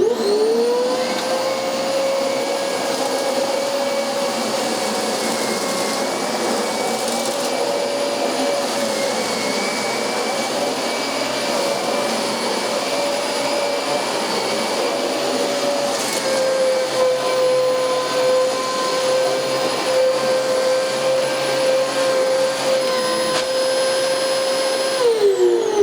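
Dyson DC25 upright vacuum cleaner switched on, its motor whining up to speed within the first second and then running steadily with rushing air. Its pitch dips slightly about two-thirds of the way through, and near the end it is switched off and winds down with a falling whine.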